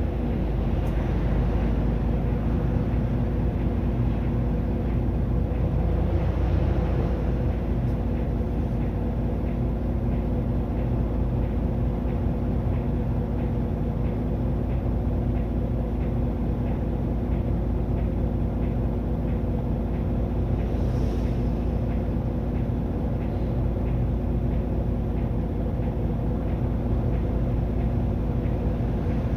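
Mitsubishi Fuso Aero Star city bus (LKG-MP37FKF) with its six-cylinder turbo-diesel running steadily while under way, heard from inside the cabin, with road rumble. From about a quarter of the way in, a faint regular ticking comes about twice a second.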